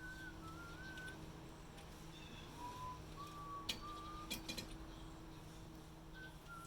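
A person whistling a slow, wandering tune in soft, pure notes, with a few sharp clicks a little past halfway, over a steady low hum.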